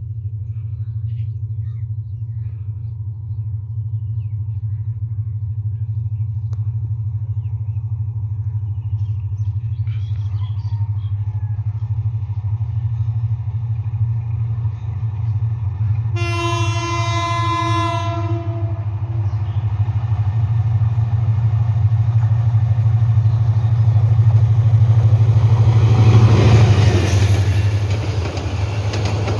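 A Bangladesh Railway diesel-hauled passenger train approaching with a steady low rumble. The locomotive horn sounds one long note of about two seconds around halfway. Near the end the locomotive and coaches pass close by with a loud roar of engine and wheels on the rails.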